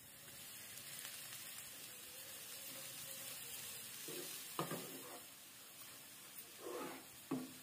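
Grated coconut sizzling as it is poured into hot ghee in a frying pan. A wooden spatula scrapes against the pan a few times in the second half as it is stirred.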